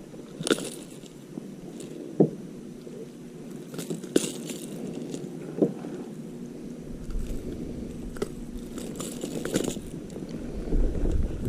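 Handling noises aboard a kayak: a handful of sharp knocks and scrapes against the hull and gear. Low wind rumble on the microphone builds from a little past halfway.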